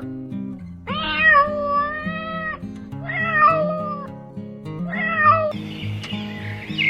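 Domestic cat meowing: three long, drawn-out meows that waver in pitch, over background music.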